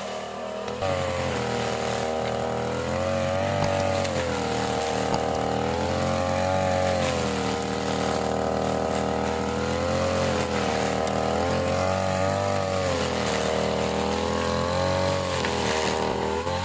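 Small petrol engine of a grass-cutting machine running at high revs. Its pitch sags and recovers again and again as it takes the load of cutting grass, and it gets louder about a second in.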